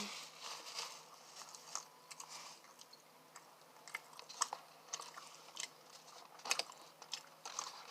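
A person chewing a mouthful of Big Mac close to the microphone: irregular soft clicks and crunches of mouth and food, with one sharper click about six and a half seconds in.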